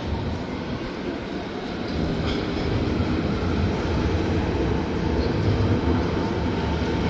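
Berlin S-Bahn train running on the rails: a steady rumble that grows louder about two seconds in.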